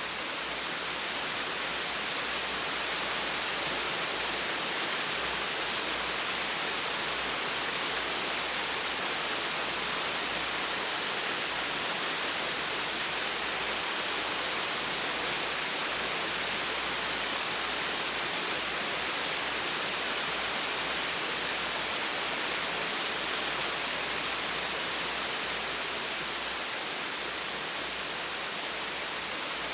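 Gentle waterfall: a steady, even rush of falling water.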